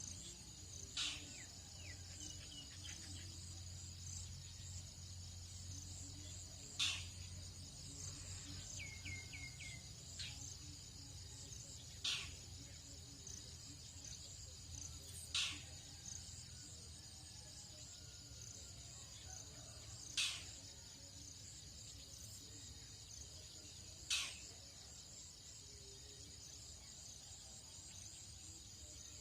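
Dawn chorus of crickets and other insects, a steady high-pitched buzzing, with a short sharp call repeating six times at intervals of about three to six seconds and a quick run of a few falling whistled bird notes around nine seconds in.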